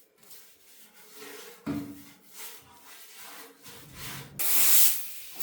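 Hand rubbing and scraping strokes on a part, with a loud hiss lasting about half a second near the end.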